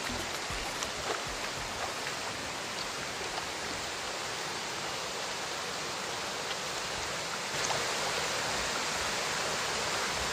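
Waterfall rushing with a steady wash of falling water, growing louder about three-quarters of the way in.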